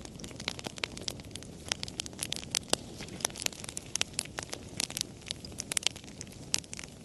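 Wood campfire crackling: many irregular sharp pops and snaps each second, over a low steady rush from the burning fire.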